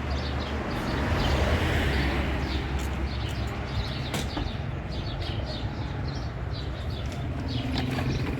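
Steady low hum under a noisy wash, with faint bird chirps scattered through it.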